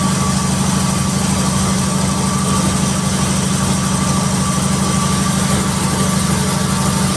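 Sawmill's engine running steadily, a constant low drone with a fast even pulse.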